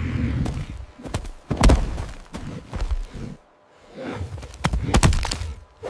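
A series of dull thumps and knocks with rustling noise between them, the loudest about two seconds in and again near the end.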